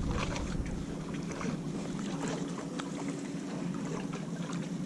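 Small splashes and drips of water around a kayak, many short irregular ticks over a soft wash of water, with a faint steady hum underneath.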